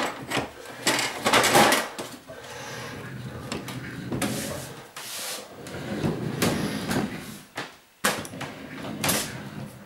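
Boxes and crates being shifted and handled: irregular scraping, rustling and knocks.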